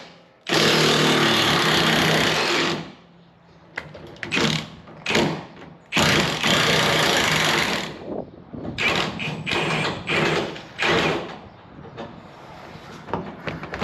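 Impact wrench running in two long bursts of about two seconds each, then several short bursts, spinning off the mounting bolts of a Ford F-150 rear shock absorber.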